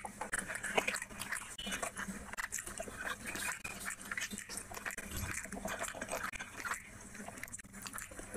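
Close-miked chewing and wet mouth sounds of a person eating rice and curry by hand, a dense run of small clicks and squelches, with fingers mixing rice on the plate.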